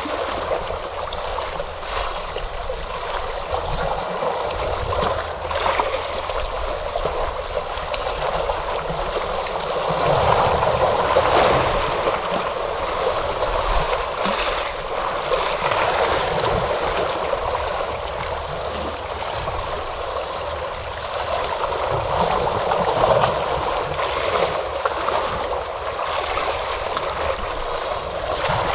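Ocean waves washing onto a shore: a continuous rush of surf that swells and eases, louder about ten seconds in and again a little past twenty seconds.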